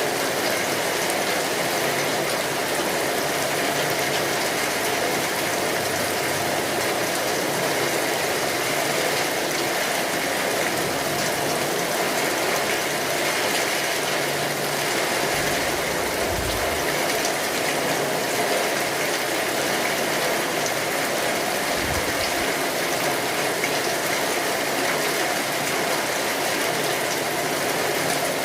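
Steady rain falling, an even, unbroken hiss of dense drops.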